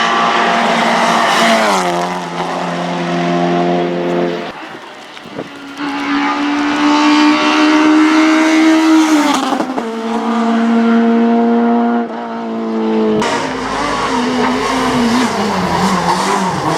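Hillclimb race car engines at high revs, one car after another: the pitch climbs under acceleration and drops sharply at gear changes or lifts, about 2 s in and again about 9.5 s in. Near the end a deeper, wavering engine note takes over.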